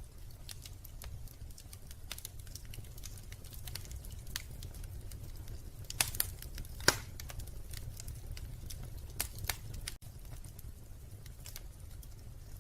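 Wood fire crackling and popping in a fireplace, irregular sharp snaps over a steady low rumble, with a cluster of louder pops about halfway through.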